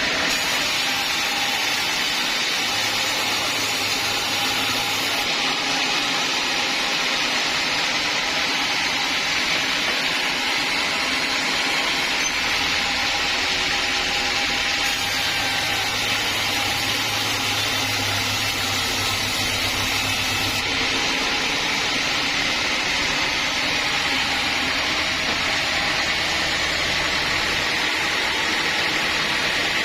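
Sawmill saw running steadily at a constant loud level, a continuous machine noise with no breaks.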